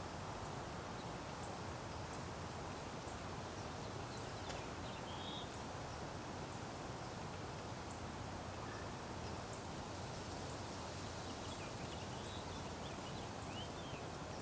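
Steady outdoor background hiss with a few faint, short high bird chirps, a couple about five seconds in and a small cluster near the end.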